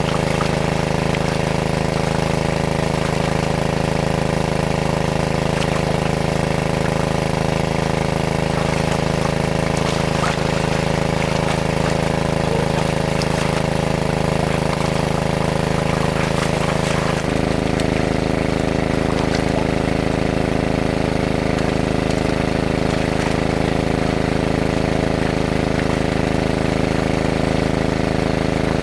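A small engine running steadily, its tone shifting abruptly about seventeen seconds in, with a few light knocks over it.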